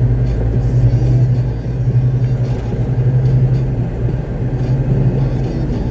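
Diesel engine of a concrete mixer truck running steadily, a low rumble heard from inside the cab.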